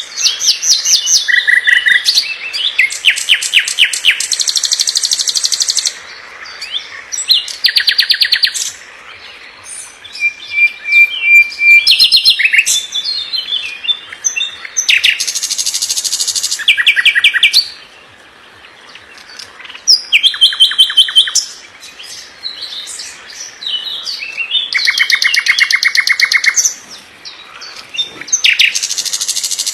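Sikatan londo singing: phrases of very rapid, tightly packed high notes and trills, each a second or two long, repeated after short pauses. This is 'masteran' tutor song, used for training murai batu.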